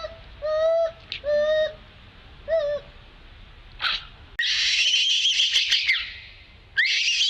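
A monkey giving short hooting calls about once a second, then two long, loud, high-pitched distress screams, the first lasting over a second and a half.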